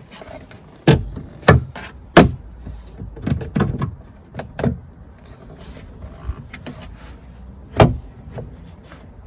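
Knocks and clunks of car-door parts being handled inside a Land Rover Freelander 2 rear door, as the just-unbolted window regulator is worked loose. About seven separate sharp knocks, the loudest about two seconds in and one more near the end.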